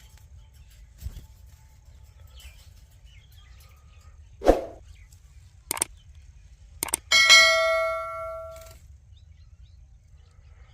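A few sharp knocks, then one metallic clang near the middle that rings on with several tones and fades over about a second and a half.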